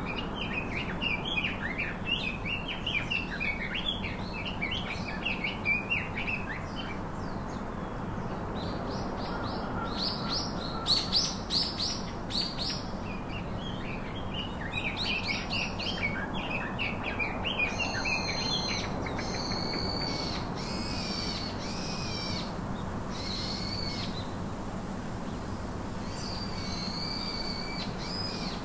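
Birds chirping and calling over a steady background hiss. A rapid twittering for the first several seconds, then bursts of brighter chirps, and in the second half a series of clearer, repeated whistled calls.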